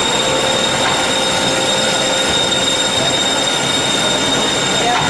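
Band saw running with a steady, high-pitched squealing whine over an even machine noise, its blade dressed with a little graphite.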